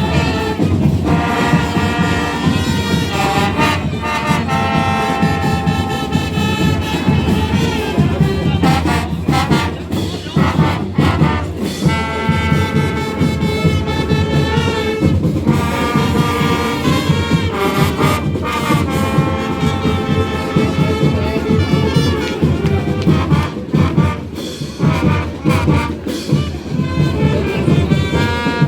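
Brass band music: horns playing held notes over a steady drum beat.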